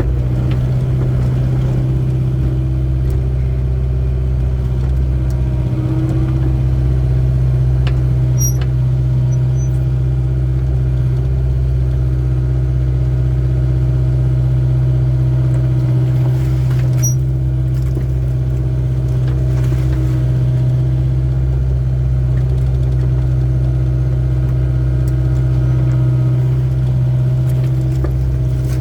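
Excavator's diesel engine running steadily, a constant low drone with a few faint clicks about 8 and 17 seconds in.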